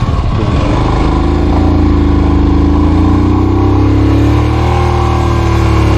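A motor vehicle engine running close by, loud and steady, its pitch sagging slightly in the middle and coming back up.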